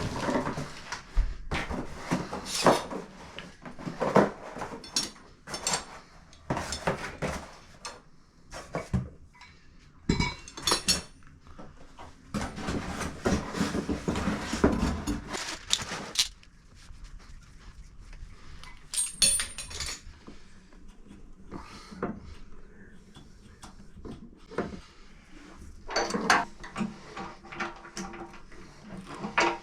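Hard metal and plastic parts and tools clinking, clattering and knocking as plumbing fittings are handled and assembled. The knocks come in clusters, with a quieter stretch around the middle and near the end.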